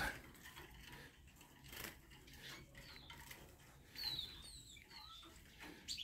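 Mostly quiet, with a few short, faint, high small-bird chirps about four to five seconds in and a few light clicks.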